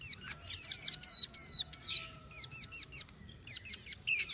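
Several hand-reared baby songbirds begging with rapid, high-pitched chirps as they are fed. The chirping is densest and loudest for the first two seconds, then comes in shorter groups with gaps between.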